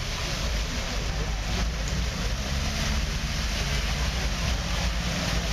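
Heavy rain pouring down, a steady hiss with a low rumble underneath.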